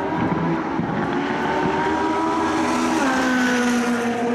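A luxury car's engine pulling hard as the car drives by. Its pitch rises steadily, then steps down about three seconds in, where it is loudest.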